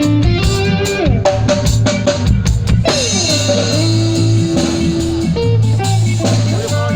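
Live band jamming: electric guitar with sliding notes over bass and drum kit, cymbals washing in about halfway through.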